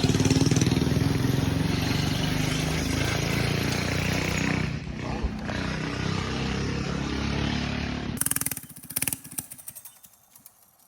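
Minibike's small single-cylinder engine running steadily, then cutting out abruptly about eight seconds in, followed by a few sharp clicks and knocks.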